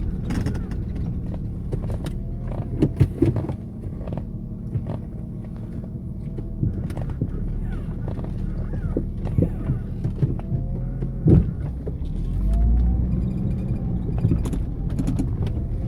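Off-road vehicle driving slowly over a rough dirt track: a steady low engine and drivetrain rumble with scattered knocks and clunks from the body and suspension, the loudest knocks about three seconds in and near eleven seconds.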